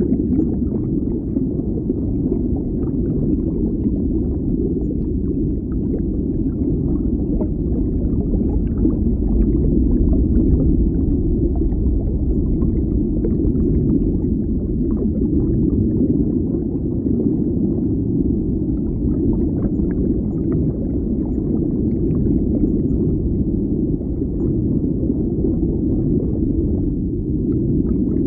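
Underwater ambience: a steady, muffled low rumble of water, with faint scattered crackles above it.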